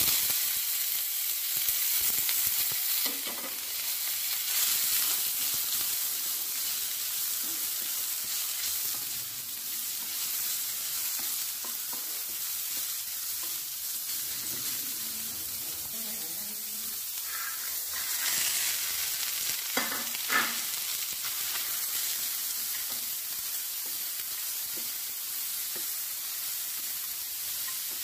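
Julienned carrots sizzling in hot oil in a stainless steel frying pan, stirred with a wooden spatula. The sizzle starts loudly as the carrots hit the oil, and a couple of sharper clatters come about two-thirds of the way through.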